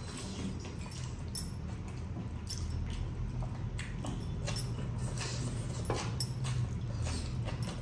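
A person eating biryani by hand, chewing and smacking the lips, with irregular wet mouth clicks over a steady low hum.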